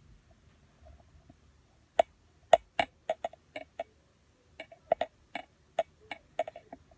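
A quick, irregular run of sharp clicks or taps, about eighteen over five seconds, starting about two seconds in.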